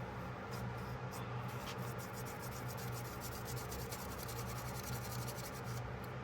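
Hand rubbing and scrubbing on a vintage pocketknife while it is cleaned: a few scattered strokes, then a fast back-and-forth run of short scratchy strokes for about four seconds. A steady low hum underneath.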